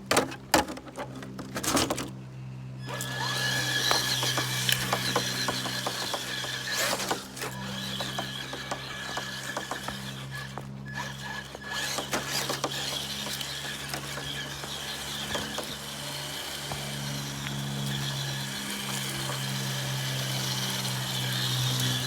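Traxxas TRX-4 RC rock crawler driving over river rocks: its electric motor and geartrain whine steadily, and sharp clicks and scrapes come from the tires and chassis on the rock. The whine comes in about three seconds in, after a few separate knocks.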